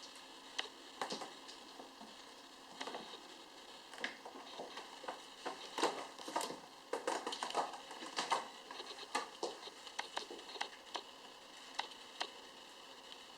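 Kittens scrambling on a play tube: irregular scratches, taps and rustles from paws and claws, busiest in the middle.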